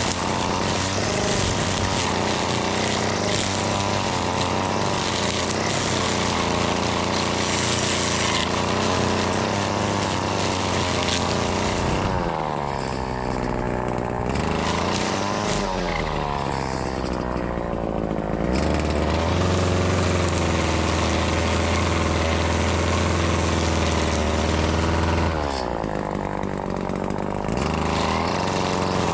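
Two-stroke engine of a Husqvarna 525L string trimmer running at high throttle. It is let off a few times, so the engine note slides down toward idle and then revs back up: twice in the middle and once more near the end.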